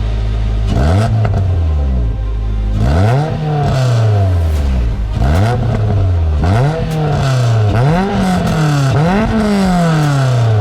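Car engine revved repeatedly from idle: about six blips, each climbing quickly in pitch and then dropping back slowly, the first starting under a second in.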